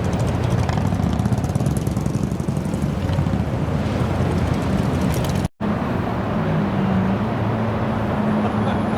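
Car engine running steadily with a low drone and no revving, broken by a sudden split-second dropout about five and a half seconds in, after which a steady engine note carries on.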